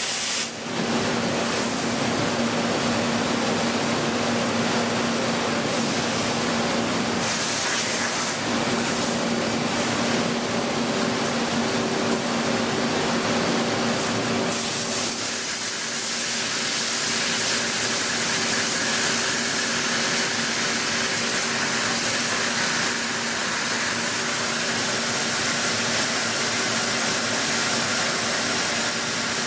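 Multi-axis CNC mill-turn machine running: a steady hiss over a constant hum, whose pitch and texture change about halfway through.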